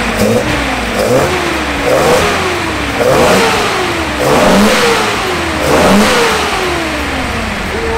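Nissan Skyline 2000GT (Hakosuka) straight-six with triple carburettors and open velocity stacks, blipped by hand at the throttle linkage about five times. Each time it revs up fast and falls back slowly toward idle, with a strong intake sound. The carburettors are well synchronised.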